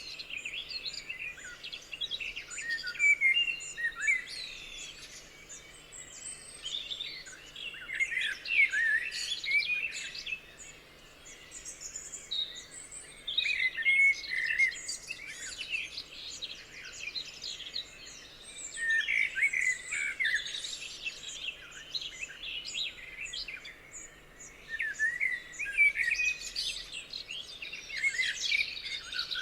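Several songbirds singing and chirping together in a dawn-chorus-like mix of quick high chirps and trills, busier at some moments than others.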